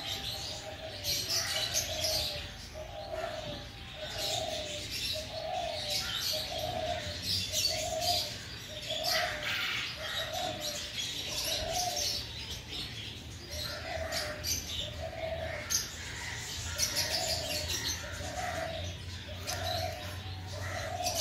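A bird repeating a short, low cooing call over and over, about once every three-quarters of a second, pausing briefly twice. Small birds chirp higher up, over a steady low hum.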